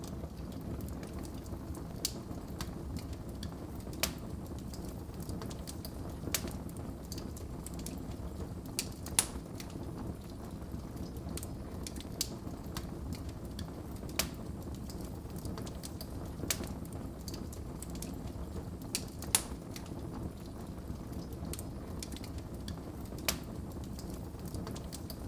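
Wood fire burning in a fireplace: a steady low rumble of the flames with sharp, irregular crackles and pops every second or two, the loudest about a third of the way in and again past halfway.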